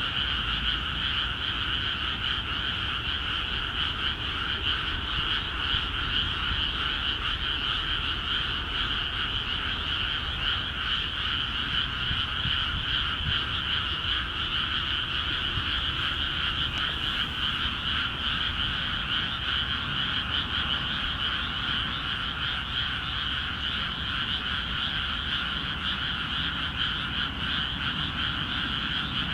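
Dense chorus of many frogs calling together from newly flooded rice paddies, a steady unbroken din with no pauses.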